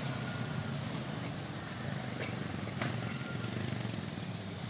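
A distant motor vehicle engine running, swelling briefly about a second in.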